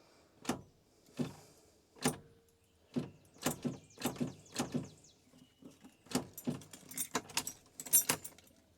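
Old truck's starter clicking again and again as the key is turned, sharp single clicks and quick clusters, with no cranking or engine running. The owner suspects the starter is stuck.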